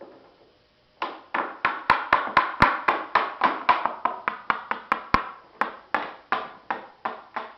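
Hammer blows in a quick, steady series, about four a second, each ringing briefly, knocking a wing mold loose from its plug.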